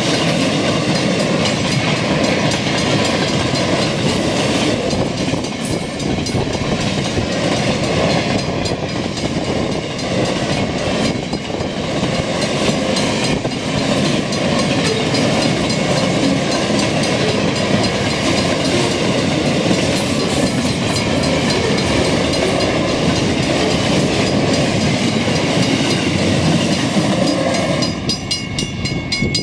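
Freight wagons loaded with steel coils rolling past at speed, a steady loud rumble of wheels on rail with clickety-clack over the joints. The noise drops away near the end as the last wagon clears the crossing, leaving the level crossing bell ringing.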